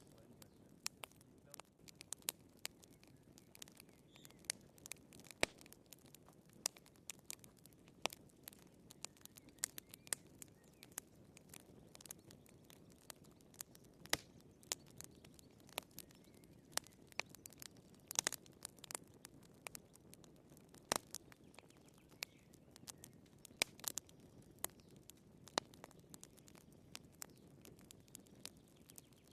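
Firewood burning in a fireplace, crackling with irregular sharp pops and snaps, several a second, over a faint steady low noise from the fire.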